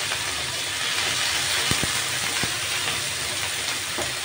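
Sliced mushrooms, onion and garlic sizzling in hot oil in a frying pan, a steady hiss, with a few light clicks in the second half.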